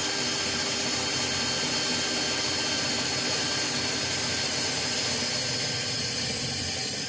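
Electric drill running steadily with a constant motor whine, boring a hole through an aluminum bus bar.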